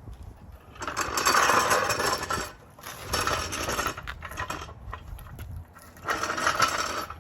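Lug nuts being run down onto a car wheel, metal rattling and ratcheting in three bursts of one to two seconds each.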